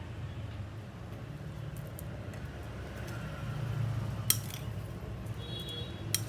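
Kitchen utensils clinking against a pan or dish, two sharp clinks about four seconds in and near the end, over a low steady hum, with the frying stopped.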